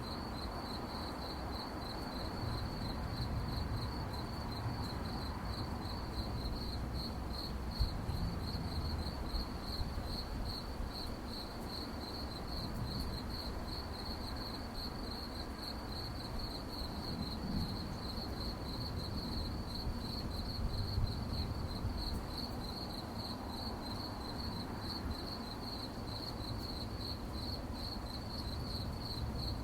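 Crickets chirping at night: a steady, high-pitched chirping repeated at an even, rapid pace, over a low background rumble.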